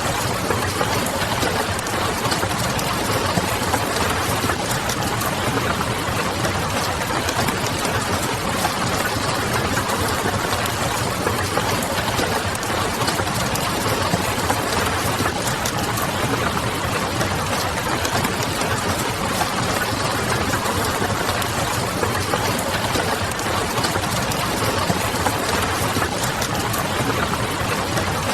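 Steady rain and the crackle of a wood fire, with many small pops over a dense, even hiss. A low, steady hum runs underneath.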